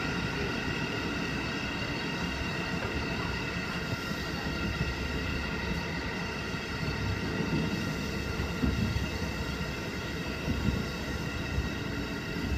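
JR Hokkaido 711 series AC electric multiple unit running on the line, heard from inside the train: a steady rumble of wheels on the rails with several steady, high-pitched tones over it.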